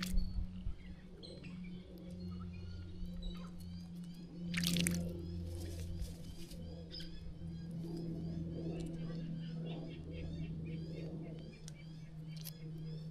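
Small birds chirping and calling repeatedly over a steady low hum, with one short burst of splashing about four and a half seconds in as a bird bathes in the water.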